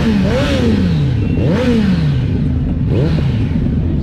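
Motorcycle engine revved in repeated quick throttle blips, each rising sharply in pitch and falling away slowly, about once a second, the blips overlapping at times.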